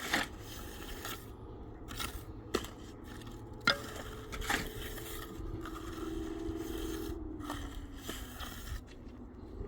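Irregular scraping strokes, with a sharp knock a little under four seconds in and a faint steady hum through the middle.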